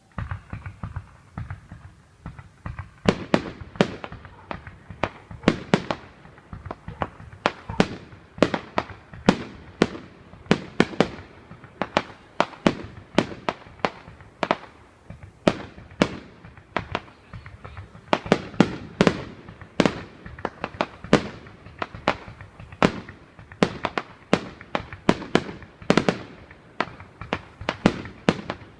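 Fireworks going off in a rapid, irregular series of sharp bangs, one to three a second, softer at first and louder and sharper from about three seconds in.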